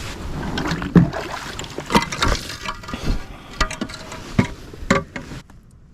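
Irregular knocks and clatter of a bass being handled on a plastic measuring board in a kayak, with rustling between the hits.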